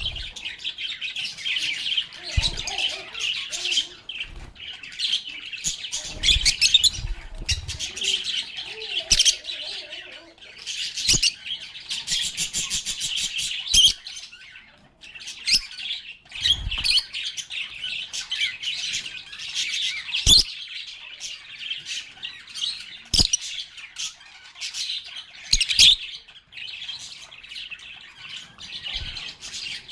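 Several lovebirds chirping and chattering without pause in a dense, high twittering, with a few sharp clicks now and then.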